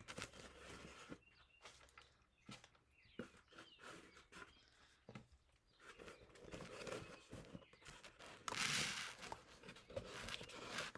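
Light, scattered rustling and small taps of dry moss pieces being handled and pressed onto a cardboard house, with a longer rustle about eight and a half seconds in and again near the end.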